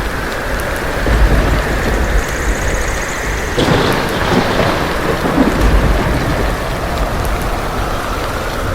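Steady heavy rain with low rolling thunder swelling and fading underneath.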